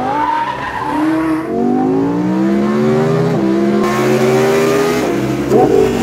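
Lamborghini Huracán V10 through a Kline Inconel valved exhaust, accelerating hard with the pitch climbing through the gears: upshifts about a second and a half and three and a half seconds in, then easing off near the end.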